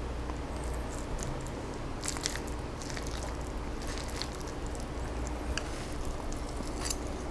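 Close-miked chewing of a mayonnaise rotisserie chicken salad with cabbage, soft mouth sounds broken by scattered small clicks, over a faint steady low hum.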